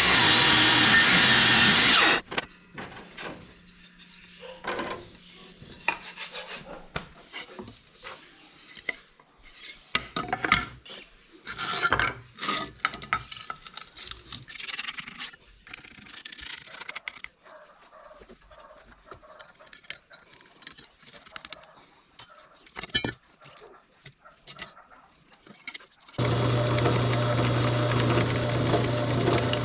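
A loud, steady electric machine runs and cuts off suddenly about two seconds in. Then comes a long stretch of irregular scraping and rubbing strokes, like hand filing or sanding on the workpiece, with occasional sharp clicks. The machine starts again abruptly near the end.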